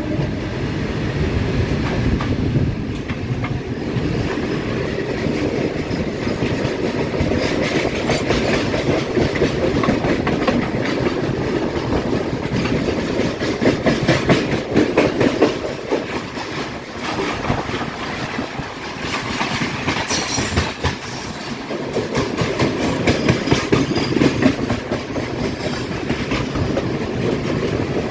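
Indian Railways passenger train running: a steady rumble with the clickety-clack of wheels over rail joints, swelling louder twice along the way.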